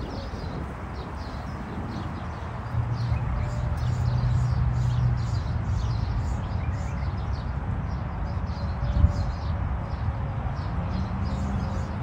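Small birds chirping, short high chirps repeated again and again, over a low steady rumble with a single thump about three-quarters through.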